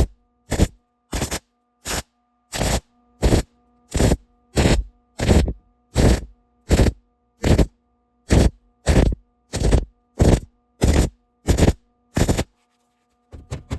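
Hammer blows on rusty sheet-metal floor pan, pounding a section into place. About twenty evenly paced strikes, roughly three every two seconds, stop shortly before the end.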